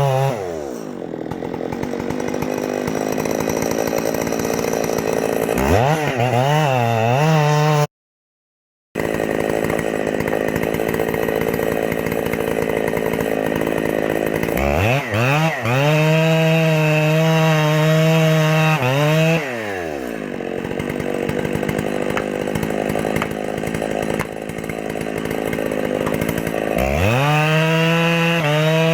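Gasoline chainsaw cutting a tree, revving up to full throttle and holding there for a few seconds, then dropping back, three times over. The sound cuts out abruptly for about a second partway through.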